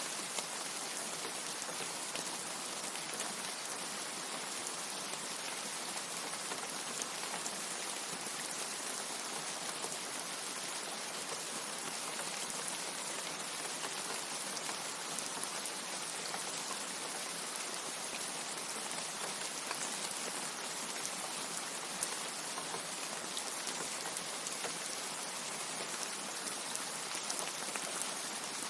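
Steady rain: an even hiss with many small scattered drop ticks and one sharper tick about three-quarters of the way through.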